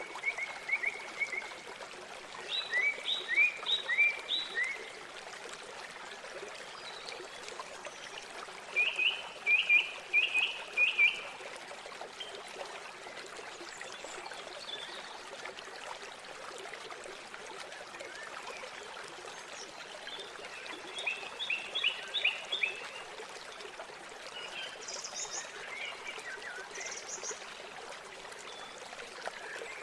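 Steady rush of river water flowing, with birds calling over it in short runs of quick, repeated chirps several times; the chirps are the loudest sound.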